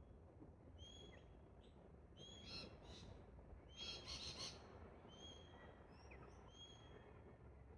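Faint bird calls: a short, high, flat note repeats every second or so, and two louder, harsh chattering bursts come about two and a half and four seconds in.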